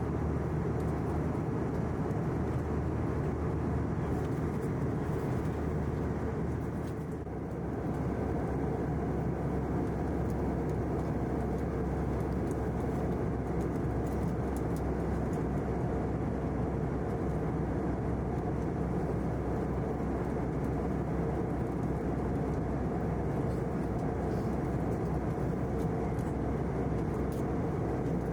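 Steady cabin noise of an Airbus A321 airliner in flight: a constant rush and drone, strongest in the low range, with a brief dip in loudness about seven seconds in.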